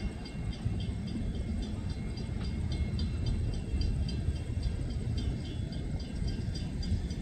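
Low steady rumble of a freight train's cars moving slowly away, with a railroad crossing bell ringing rapidly, about four strikes a second, over it.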